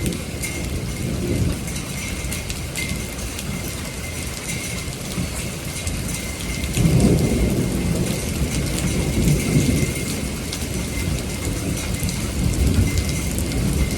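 Heavy rain pouring steadily with many drops pattering on surfaces, under rolling thunder that rumbles continuously and swells louder about halfway through and again near the end.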